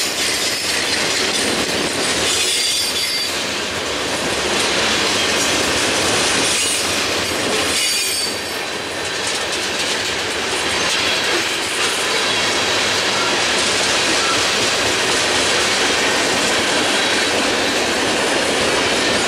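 Freight train of boxcars and tank cars rolling past close by: steel wheels running and clacking over the rails in a steady, loud roar, with thin high-pitched wheel squeal in the first few seconds.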